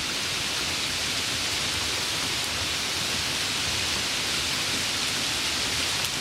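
Steady rain: a dense, even hiss of falling rain with no single drops standing out.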